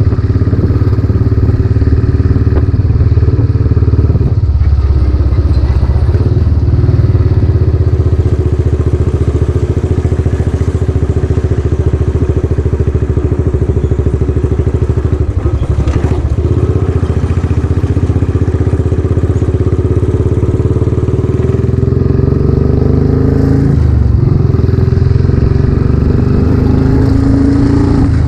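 Royal Enfield Classic 500's single-cylinder engine running on the road through a newly fitted aftermarket silencer. The note dips briefly twice and climbs near the end.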